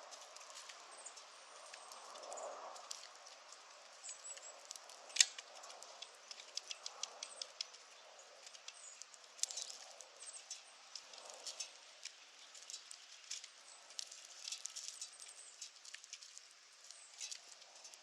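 Irregular run of small sharp clicks and scratches, typical of a Douglas's squirrel gnawing or scrabbling, with a few brief high chirps.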